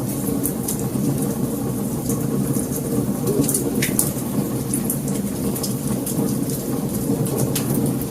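Wood fire burning: a steady low rumble with frequent sharp crackles and pops throughout.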